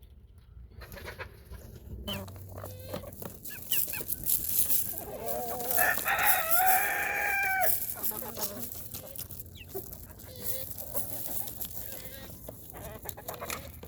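Chickens clucking, with a rooster crowing once near the middle in a long call of about two and a half seconds, the loudest sound.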